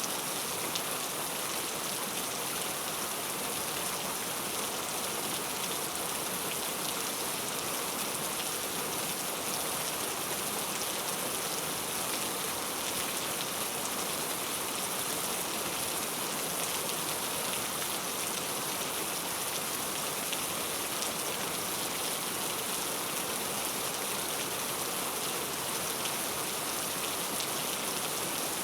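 Heavy rain falling steadily, an even hiss of dense drops with no let-up.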